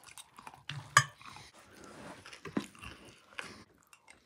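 Close chewing and crunching of a crunchy noodle-and-vegetable snack mix eaten by the spoonful, in many small irregular crackles. One short loud knock about a second in.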